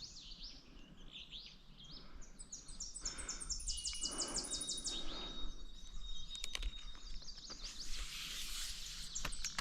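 Wild songbirds singing: a fast series of short, high, repeated notes, with a thin steady high whistle running on after it, over quiet outdoor background, and a few sharp clicks late on.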